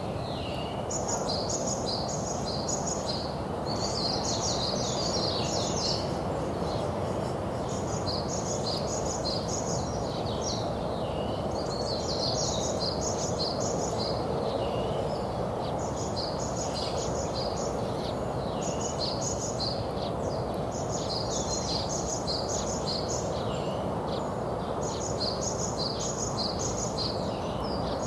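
Songbirds singing in repeated phrases of rapid high chirps, each phrase lasting a second or two with short pauses between, over a steady low rush of background noise.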